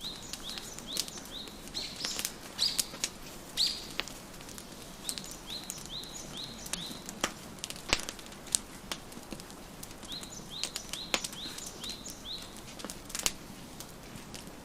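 Wood fire crackling with sharp, irregular pops over a soft hiss, while a songbird repeats a short rising chirp in quick runs of about four a second.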